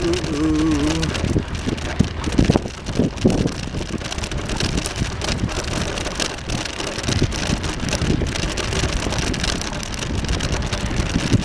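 Riding noise of a bicycle on a path: a steady rush of tyre and wind noise with many small knocks and rattles from the bike.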